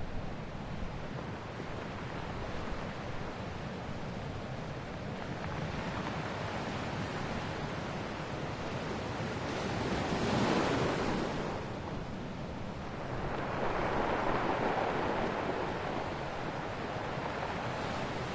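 Ocean waves breaking on a shore over a steady wash of surf; two waves swell up and break, one about ten seconds in and another a few seconds later.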